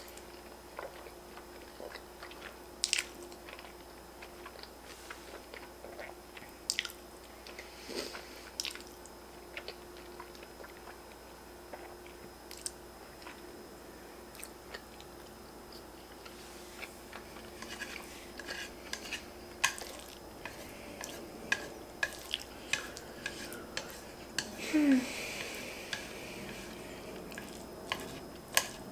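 A person chewing ramen noodles with bacon bits: soft wet mouth clicks and smacks, scattered at first and more frequent in the second half, with one louder burst about 25 seconds in.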